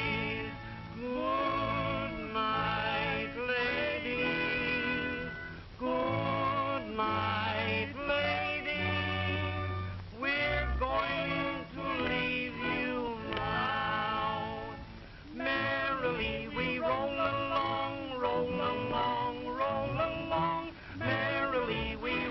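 Voices singing a song together in phrases with a strong wobbling vibrato, over a band accompaniment, on an early sound-film soundtrack.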